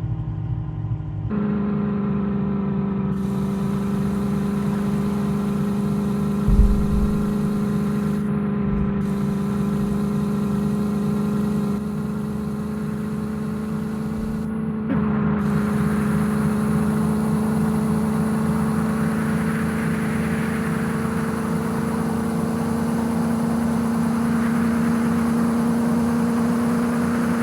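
Heavy diesel engine running hard at steady high revs, its pitch creeping slowly upward, with a brief low thump about six seconds in.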